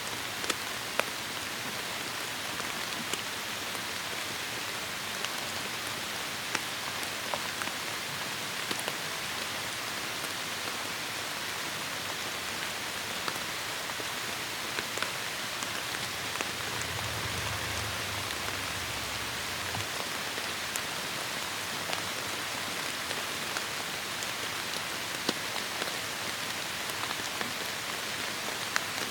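Heavy rain falling in a forest: a steady hiss with scattered sharp drops close by. A brief low rumble comes a little past the middle.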